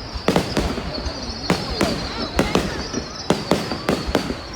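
Fireworks display: a dozen or so sharp bangs of shells bursting at irregular intervals, some in quick pairs, over a continuous high crackle.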